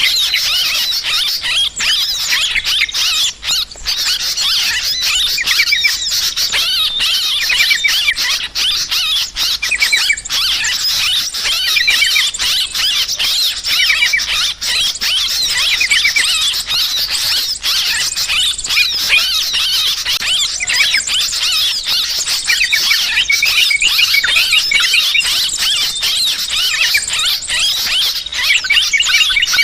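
Dense, continuous chatter of many yellow-vented bulbuls calling over one another in rapid, harsh notes. These are the agitated 'ribut' calls used as a bird-trapping lure.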